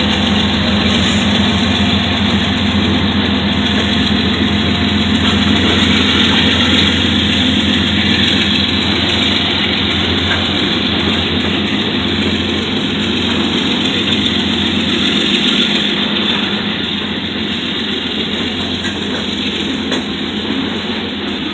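Freight train's diesel locomotives running past with a steady engine drone, which fades after about twelve seconds as the freight cars roll by with steady wheel noise.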